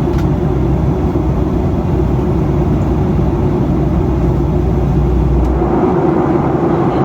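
Steady in-flight cabin noise of a Boeing 737 airliner: engine and airflow drone with a steady hum. The deepest rumble drops away about six seconds in.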